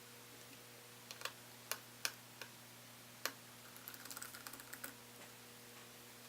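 Small hard clicks and taps from handling a screwdriver and laptop parts during reassembly: a handful of sharp separate clicks, then a quick run of lighter ticking around the middle.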